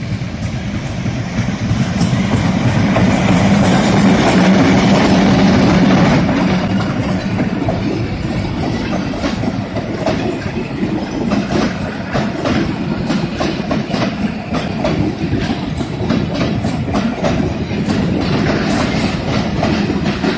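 Passenger train coaches rolling past close by: a heavy rumble with a rapid, uneven clicking of wheels over rail joints. It is loudest for the first few seconds, then steadies.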